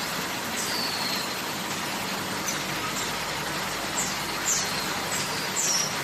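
Steady machinery noise from an aerosol production line, with short high chirps that fall in pitch, repeated irregularly and several coming close together near the end.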